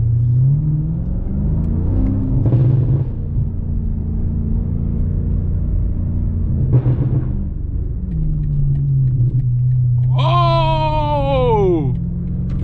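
BMW M5 Competition's twin-turbo V8 running at low revs, its note rising briefly and later dropping and settling steady. About ten seconds in, a loud pitched tone sweeps downward for under two seconds over the engine.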